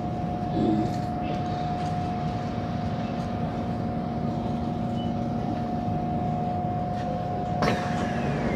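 SMRT C151 train running, a steady rumble with a constant hum. Near the end comes a sharp click, then a falling whine.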